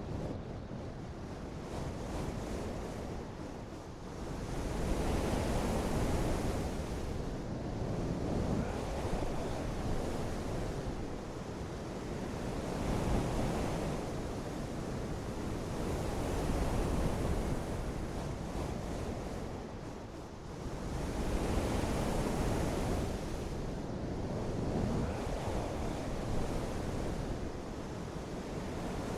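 Steady rushing noise of water, heavy rain or surf, swelling and easing every four seconds or so, with wind on top.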